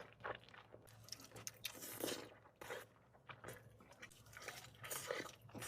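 Close-miked chewing and biting, with soft crunches and wet smacks of food in the mouth, coming in short irregular bursts.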